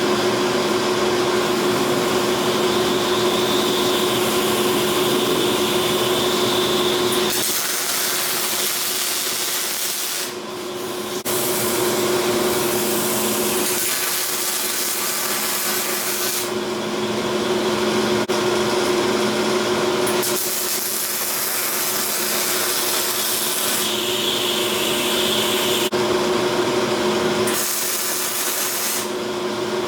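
A power grinder runs with a steady motor hum, grinding steel. The grinding noise changes every few seconds, with a brief dip about ten seconds in.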